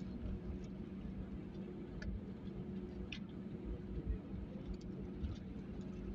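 Airbus A320 cabin noise: a steady low drone from the engines and airflow, with a constant low hum and a few faint light clicks.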